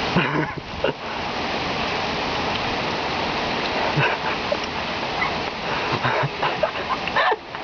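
Heavy rain pouring down in a steady hiss, with a few short calls breaking through it.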